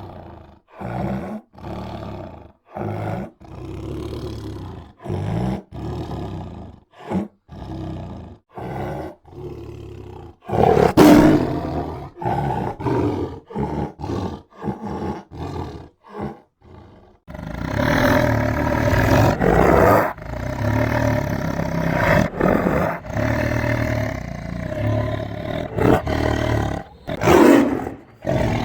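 White tiger growling and roaring. Short growls come about once a second, with one loud roar about eleven seconds in. From about seventeen seconds on the roaring is continuous, with another loud roar near the end.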